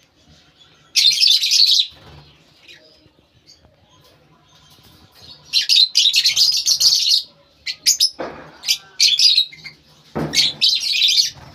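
Lovebirds chirping in loud bursts of shrill, high-pitched chatter, about four bursts with quieter gaps between.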